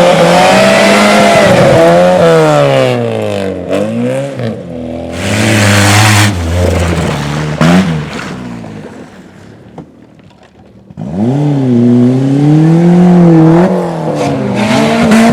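A rally car's engine revved hard through the gears, pitch climbing and dropping with each shift and lift, with tyre and gravel noise in bursts. It fades away about nine seconds in, and a car revving hard comes in again about eleven seconds in.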